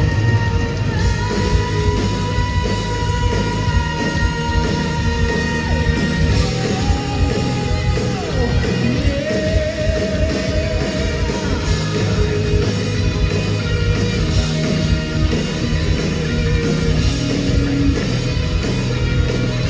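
Live heavy metal band playing loudly, with singing over dense drums and long held notes in the first half.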